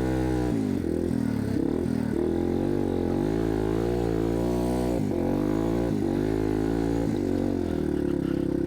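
Yamaha TW200's single-cylinder four-stroke engine running under load as the bike is ridden through snow. It is steady at first, then the revs rise and fall over and over as the throttle is worked.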